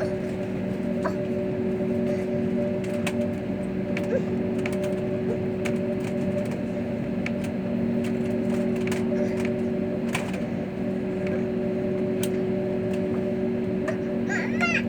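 Steady drone of a jet airliner's cabin, engine and air-system hum holding a constant pitch with no rise or fall, with a few light clicks scattered through it.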